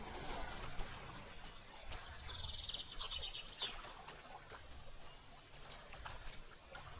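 A songbird giving a rapid trilled call from about two seconds in, lasting a second and a half, then a few faint high chirps near the end, over low outdoor background rumble.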